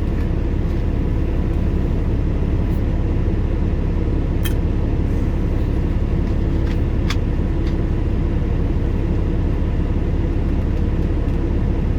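Semi-truck diesel engine idling, a steady low rumble heard inside the cab, with a couple of faint clicks about four and seven seconds in.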